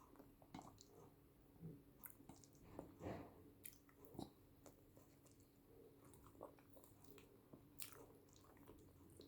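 Quiet close-miked chewing and wet mouth sounds of a person eating yam with eggplant sauce. There are irregular soft smacks and clicks, a few louder ones about two, three and eight seconds in.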